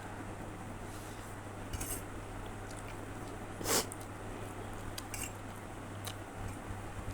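Cutlery clinking and scraping against a bowl a few times while noodles are eaten, the loudest clink about halfway through, over a steady low hum.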